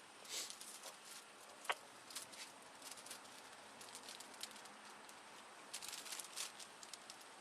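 Faint rustling and crinkling handling noises in short irregular crackles, with one sharp click just under two seconds in.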